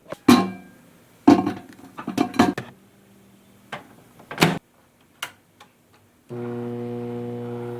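Kitchenware clinking and knocking in a handful of sharp, ringing strikes, then a steady hum that starts about six seconds in and holds.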